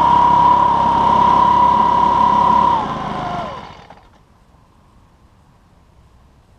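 Homemade valved pulse jet engine running loud and steady with a high whine over a heavy rumble, then cutting out about three seconds in. The whine falls in pitch as it dies away, and it is quiet within a second or so. The engine has stopped because it has just blown a couple of its reeds.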